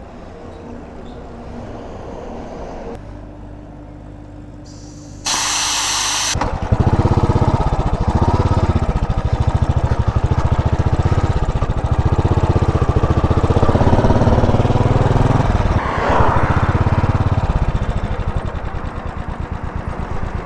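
Royal Enfield motorcycle engine running: a low hum at first, then a brief loud hiss about five seconds in, then a fast, steady thumping that rises and falls with the throttle. The bike is being ridden on a punctured rear tyre.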